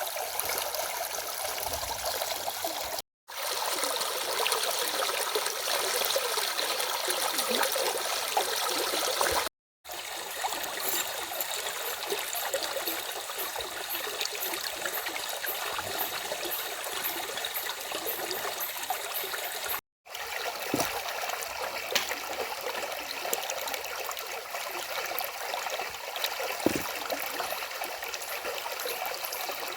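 A stream flowing and trickling over small cascades, a steady rushing and splashing. The sound cuts out completely for a split second three times.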